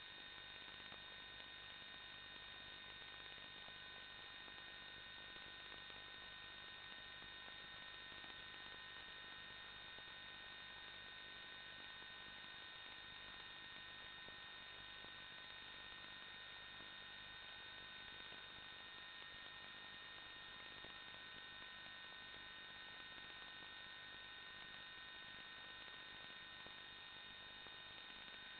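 Near silence: a faint steady electrical hum with a few thin high tones, unchanging throughout.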